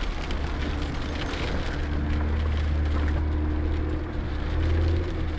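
Car engine and road noise: a steady low drone with a faint hum above it.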